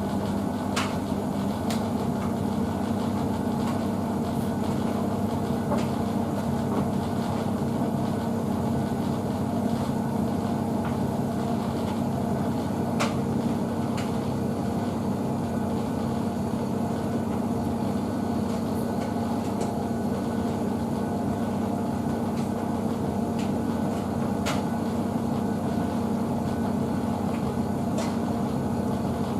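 Blomberg WNF9448 washing machine running early in a Fast Full Load 40 wash of dog bedding: a steady mechanical hum with a few faint clicks.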